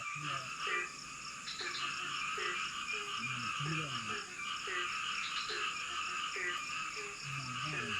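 Frogs calling over a dense, unbroken insect chorus. Short croaks that fall in pitch repeat every half second or so, with deeper calls mixed in.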